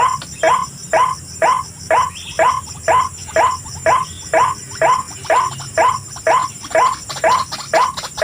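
White-breasted waterhen calls: a rapid, even string of harsh 'kruak' notes, about two and a half a second. A faint steady high insect drone runs underneath.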